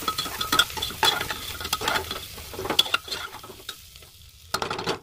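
Sliced onions and ginger frying in oil in an aluminium pressure cooker, sizzling, while a metal slotted spoon stirs them with quick scraping and clinking strokes against the pot. The stirring eases off about three and a half seconds in, then a short brisk flurry comes near the end.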